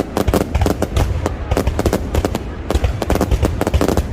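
Fireworks bursting overhead in a dense, rapid series of sharp cracks and bangs, many a second, with low booms underneath.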